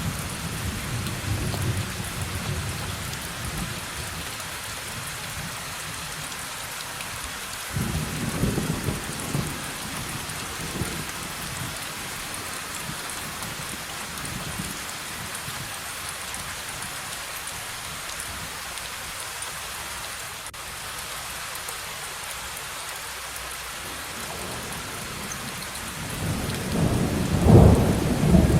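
Steady heavy rain with rolling thunder: low rumbles at the start and about eight seconds in, then a louder thunder roll building near the end.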